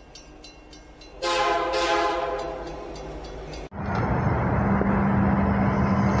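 A train horn sounds about a second in, a chord of several tones that fades over about two seconds. After a sudden cut, an Adelaide Metro diesel railcar runs into a station platform: a steady engine and running noise with a constant low hum.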